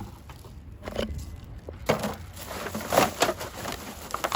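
Several short knocks and scrapes as a discarded can is picked up off the ground and handled.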